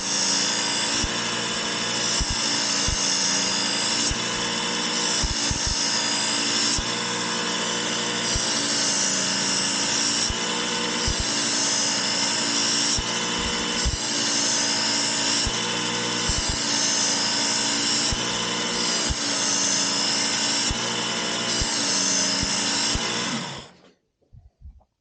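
Work Sharp powered belt sharpener running on its coarsest belt while a steel broadhead is stroked across it in repeated passes, the grinding tone shifting with each pass. The motor shuts off about a second before the end.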